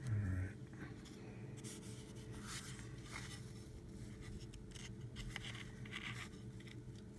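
A paintbrush working India ink wash over a cast Hydrocal plaster wall: faint, scratchy brush strokes that come in a cluster through the middle. There is a short low thump at the very start and a steady low hum underneath.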